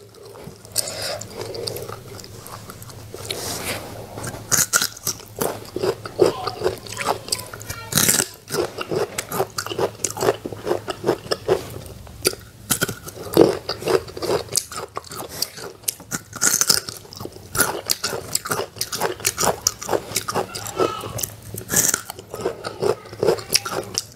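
Crisp green fruit slices being bitten and chewed, close to the microphone: repeated sharp crunches, each bite followed by wet, crunchy chewing.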